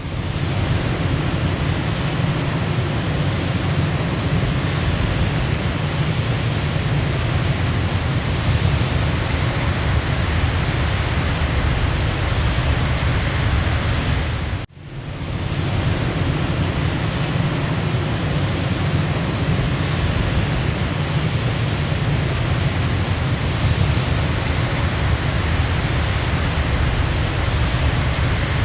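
Waterfall rushing steadily with a deep, full sound. About halfway through it cuts out for a moment and fades back in.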